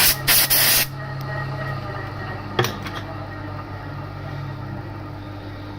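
TOS milling machine running with a steady hum. Near the start there are three short, loud blasts of hiss, and a single sharp knock comes about two and a half seconds in, as a lower part of the hum drops away.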